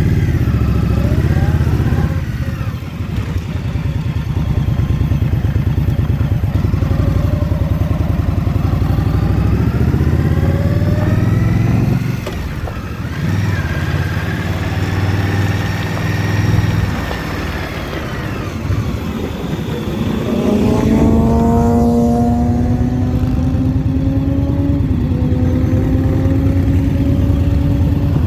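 Motorcycle engine under way, its pitch climbing and falling as the bike accelerates and shifts gears, with a sharp drop in revs about twelve seconds in and a steady climb over the last several seconds. Wind and road noise run underneath.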